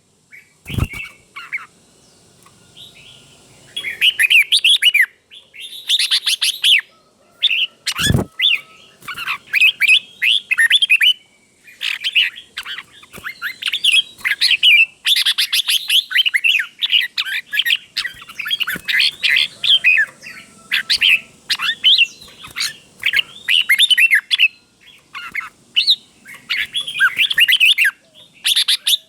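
Red-whiskered bulbul singing: quick, bright chattering phrases repeated one after another with short pauses, in the doubled ('beun') style that keepers prize. Two sharp clicks cut in, one near the start and one about eight seconds in.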